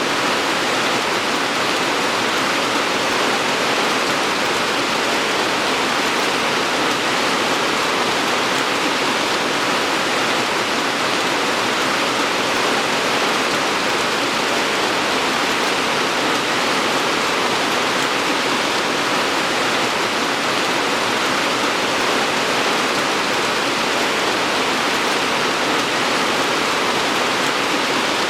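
Steady rain falling: a dense, even hiss that holds at the same level throughout.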